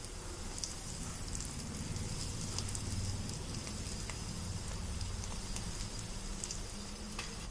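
Breaded potato cheese balls deep-frying in hot oil on a low flame: a steady sizzle of bubbling oil with fine crackles.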